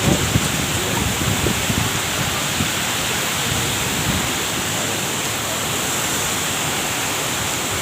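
Heavy, stormy rain pouring down steadily, a dense even hiss with a few low rumbles early on.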